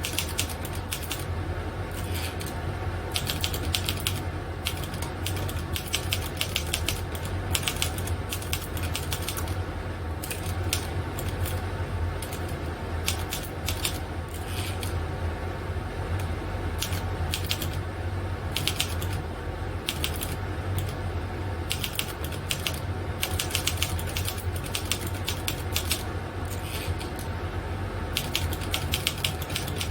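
Typing: rapid key clicks in runs broken by short pauses, over a steady low hum.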